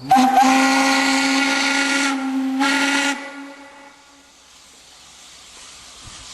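Steam whistle of the steam locomotive BDZ 46.03 blowing one long steady blast of about three seconds, a low chord of several tones with a hissing edge. It then dies away to a faint steam hiss.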